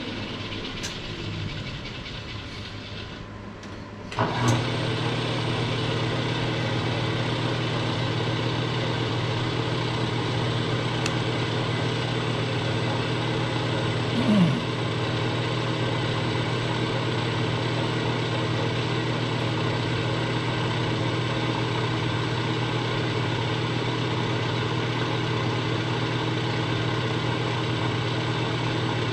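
Milling machine spindle starting about four seconds in and then running steadily with an even, many-toned hum while an offset boring head takes a cut in the cast engine frame. A brief downward-sliding sound stands out about fourteen seconds in.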